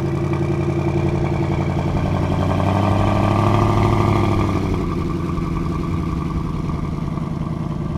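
Fox-body Ford Mustang GT drag car's V8 running just after a cold start. The revs rise about two and a half seconds in, hold for about two seconds, then settle back to a steady idle.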